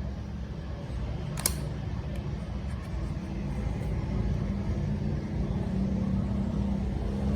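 A steady low mechanical rumble, slowly growing louder, with one sharp click about a second and a half in.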